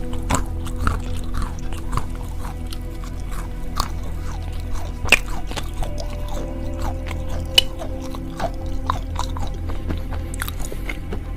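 Close-up crunchy chewing and biting of spicy peanuts, many short crunches with two louder ones about five and seven and a half seconds in, over steady background music.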